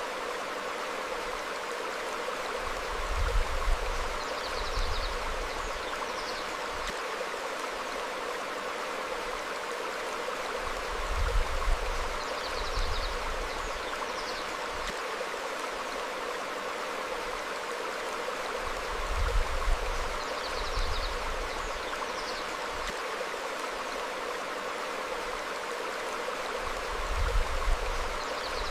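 Stream flowing steadily over rocks, with faint short bird chirps now and then. Low rumbles recur about every eight seconds and are the loudest moments.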